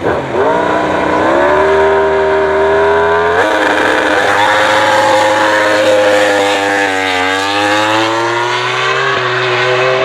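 Racing motorcycle engine at high revs, its pitch climbing hard, with a gear change about three and a half seconds in, a short dip about seven seconds in, then climbing again.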